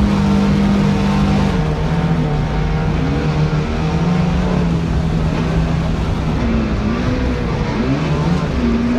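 A boat's motor running with a steady pitch, then its pitch rising and falling repeatedly over the last few seconds as the speed changes, over a steady rush of noise.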